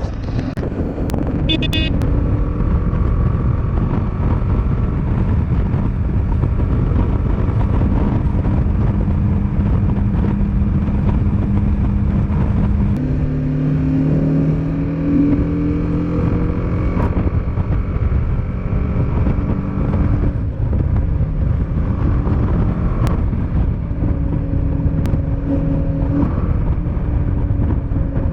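Motorcycle engine running under way, with heavy wind rumble on the microphone. The engine note steps up in pitch about halfway through and shifts again later on.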